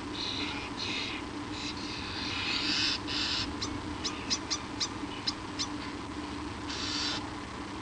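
Birds at a nest giving short rasping hisses again and again, with a quick run of about seven sharp clicks in the middle, over a steady electrical hum from the nest camera.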